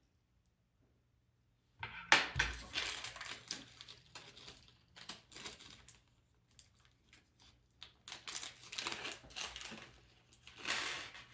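Small screws, nuts and parts being handled and sorted by hand: irregular clicks, rattles and rustling, beginning about two seconds in with a sharp click.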